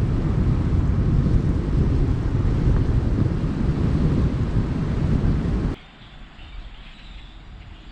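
Wind buffeting the microphone outdoors: a loud, low rumbling noise that cuts off abruptly near the end, leaving a quiet outdoor background.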